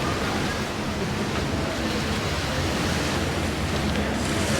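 Steady beach ambience: an even wash of surf and wind.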